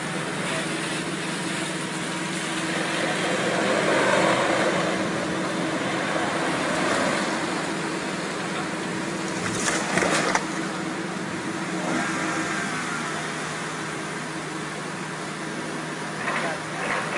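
Vehicle and road noise, steady, with a louder swell about four seconds in and a few brief sharp knocks about ten seconds in.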